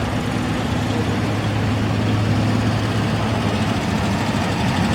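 A vehicle engine idling steadily, with a low, even hum.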